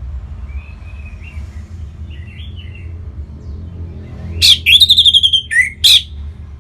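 Orange-headed thrush singing: soft, quiet warbling phrases, then about four seconds in a loud outburst of sharp notes and a rapid trilled phrase. A steady low hum runs underneath.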